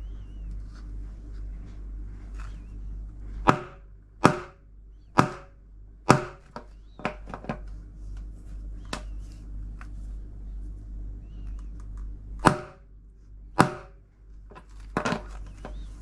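Hammer blows driving a drum bearing into the tub housing of an LG washing machine, each strike sharp and briefly ringing: four heavy blows in quick succession a few seconds in, lighter taps after them, then two more heavy blows and a quick cluster near the end. The bearing is being knocked square after going in crooked.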